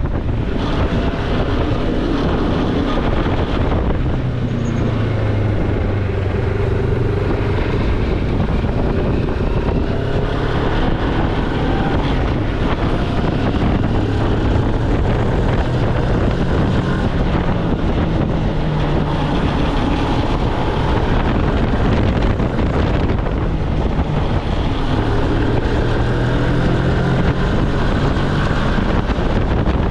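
Moto Morini X-Cape's parallel-twin engine running while riding, its note rising and falling with the throttle several times, under heavy wind noise on the microphone.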